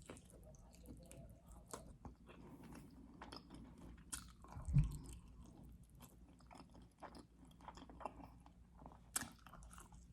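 Close-up chewing and biting of food: soft wet mouth clicks and smacks, with one louder low thump about halfway through.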